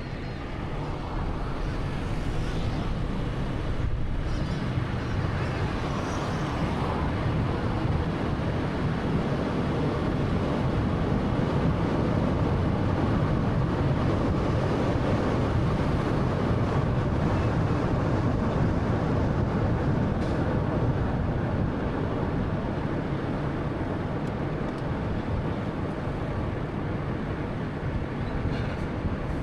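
Road and tyre noise with the engine of a 2013 Honda Fit (1.3-litre) on the move, a steady rushing hum that builds over the first couple of seconds and then holds level.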